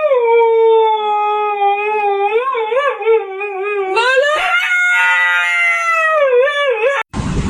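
A dog howling in long, drawn-out notes whose pitch wavers and wobbles; a second, higher howl starts about four seconds in and breaks off suddenly shortly before the end.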